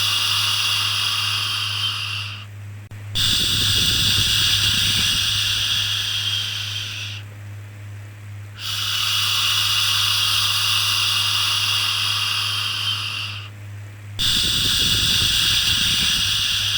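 Long drawn-out "shhh" shushing sounds for soothing a baby, each lasting about four to five seconds with a short pause between them, over a steady low hum.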